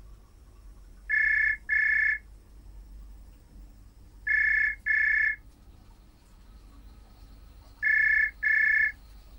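Telephone ringing with a double-ring cadence: three pairs of short rings on a steady high tone, each pair about three seconds after the last.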